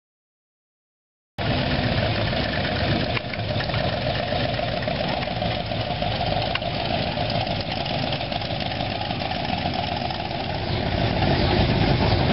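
Dead silence for about the first second and a half, then hot rod and muscle car engines running at idle as the cars cruise slowly past, growing a little louder near the end.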